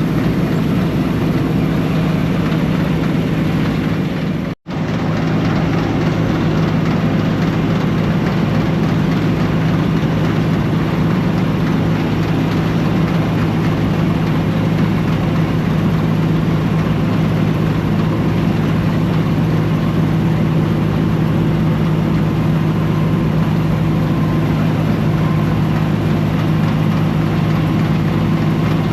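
Combine harvester running steadily in the wheat, a loud engine and threshing drone with a strong low hum. The sound cuts out completely for an instant about four and a half seconds in, then carries on unchanged.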